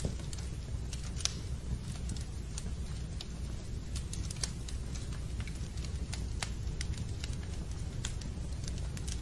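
Fireplace crackling: a steady low rumble of burning wood with irregular sharp pops and snaps scattered through.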